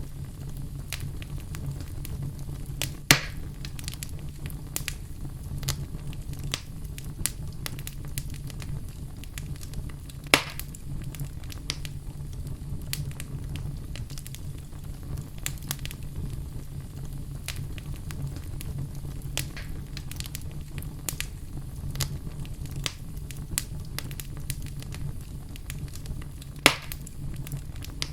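A fire burning in a fireplace, crackling steadily over a low rumble of flames. Three louder pops stand out: about three seconds in, around ten seconds in, and near the end.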